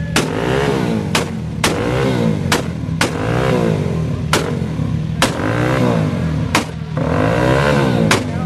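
Car engine revved up and down over and over, with a sharp crack every half second to a second between revs.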